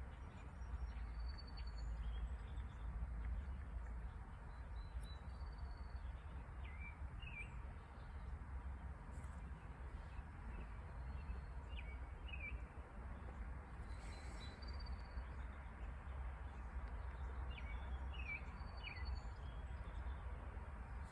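Birds chirping faintly: three pairs of short falling chirps spread through the stretch, with a few higher short notes between them, over a steady low rumble.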